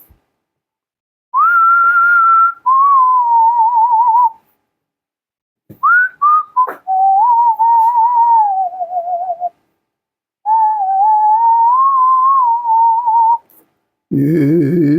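A person whistling a slow melody in several phrases separated by short pauses. The notes waver with a light vibrato.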